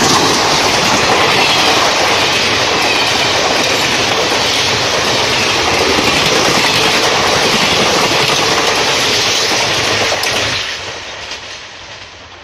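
Indian Railways express passenger train, a rake of blue coaches, passing close by at speed with a loud, steady rush of wheels on the rails. About ten and a half seconds in, the last coach goes by and the sound falls away quickly as the train moves off.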